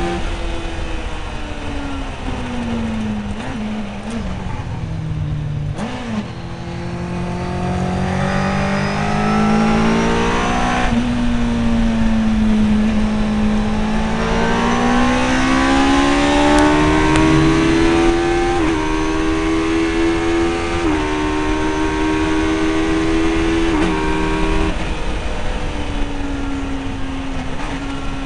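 MK Indy kit car's engine driven hard on a race circuit, heard from the open cockpit over wind and road noise. The engine note sweeps down under braking and climbs again under acceleration, with several sudden jumps in pitch at gear changes.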